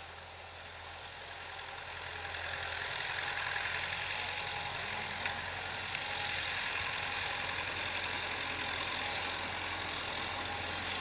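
T-40 wheeled tractor's diesel engine running, growing louder over the first few seconds and then holding steady, with a couple of faint clicks about halfway through.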